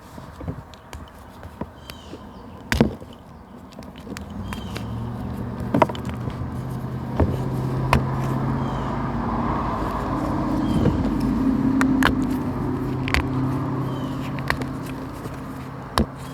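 A motor vehicle's engine hum that swells over several seconds and fades again, as a vehicle passes slowly nearby. Sharp clicks and snaps are scattered through it, and short faint high chirps recur.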